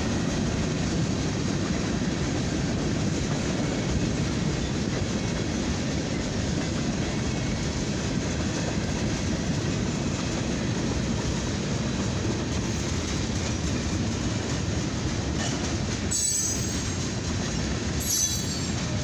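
A long mixed freight train's cars rolling past at speed: a steady, loud rumble of steel wheels on rail.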